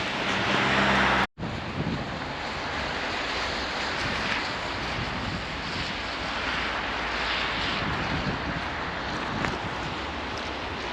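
Blizzard wind buffeting the microphone as a steady rushing noise. It cuts out abruptly for an instant about a second in, then carries on unchanged.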